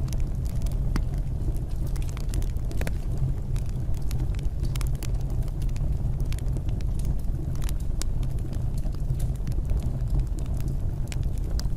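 Wood fire burning: a steady low rumble with frequent sharp, irregular crackles and pops.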